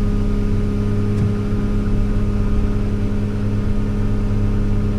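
Diesel engine of a large farm machine running steadily at constant speed: an even, unchanging engine hum.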